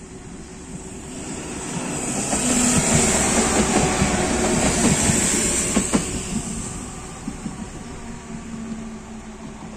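A red-and-white passenger multiple unit runs over the level crossing. Its rumble and wheel clatter build up, are loudest about three to five seconds in, and then fade, with a sharp click from the wheels about six seconds in. Underneath, the crossing's warning signal sounds a faint steady tone.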